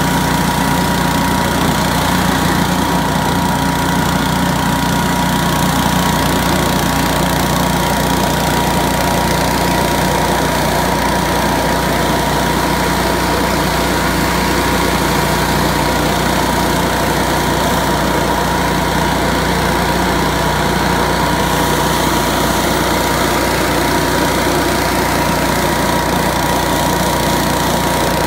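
Billy Goat F601S wheeled push leaf blower running at a steady speed: its 170 cc Robin ST170 four-stroke engine drives the large impeller, giving an even engine hum with a steady whine over it and no change in speed.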